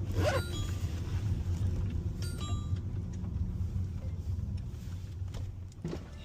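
Steady low rumble of a car's engine and road noise heard inside the cabin while driving, easing off slightly near the end.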